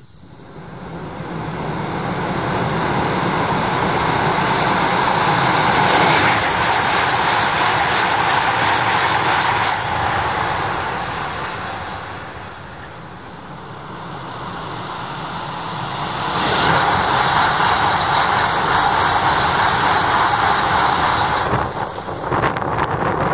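Tohoku Shinkansen train noise at high speed at a tunnel mouth: a rushing roar that builds over several seconds, eases about halfway through, then swells again and cuts off sharply near the end.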